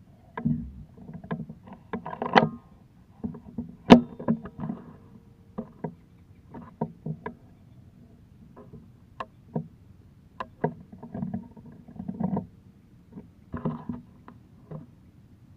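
A small boat being paddled through water: irregular splashes and knocks, with one sharp knock about four seconds in the loudest.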